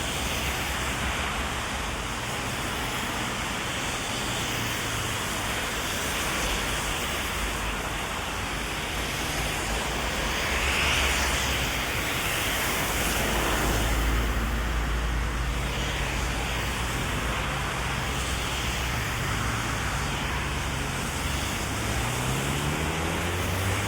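Heavy rain falling steadily, with the hiss and rumble of traffic on the wet street swelling past about halfway through. Near the end a car engine speeds up with a rising pitch.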